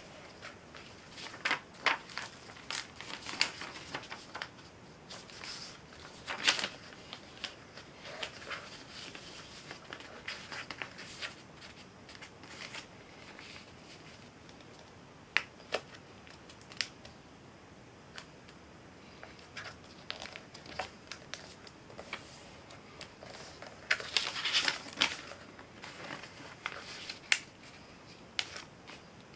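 A sheet of paper being handled, folded and creased by hand: short crinkles, rustles and sharp crackling clicks at irregular intervals, busiest about three-quarters of the way through.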